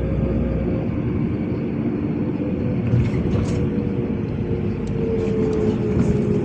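Inside a LiAZ 5292.65 city bus on the move: the engine and drivetrain rumble with a steady hum, whose whine slides slightly lower in the second half as the bus slows for a stop. A few light rattles and clicks in the second half.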